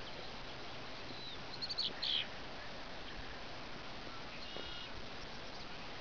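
Birds chirping: a quick cluster of sharp high calls about a second and a half in, then a shorter call a little past the middle, over a steady background hiss.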